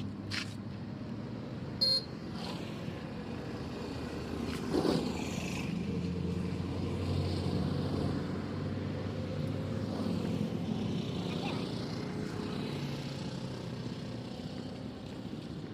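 A motor vehicle's engine running steadily, slightly louder in the middle, with a few short sharp knocks.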